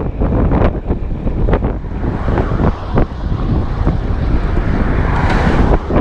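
Wind buffeting the camera microphone on a bicycle riding into a headwind: a loud, gusty rumble, with a louder rushing swell near the end.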